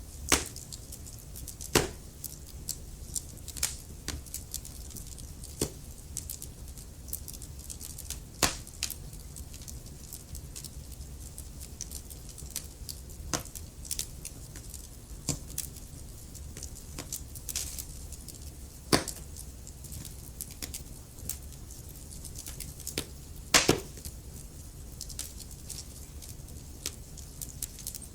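Wood fire burning in a fireplace, crackling with irregular sharp pops and snaps over a low steady rumble of the flames; the loudest pops come near the start, about 8 seconds in, 19 seconds in and 23 seconds in.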